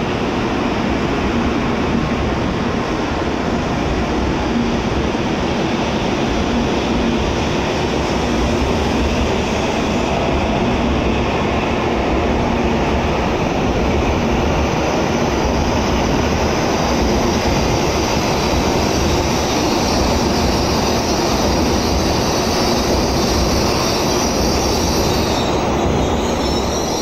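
N700A-series Shinkansen train pulling slowly out along the platform: the steady rumble of wheels and traction motors as its cars roll past. A high wheel squeal comes in near the end.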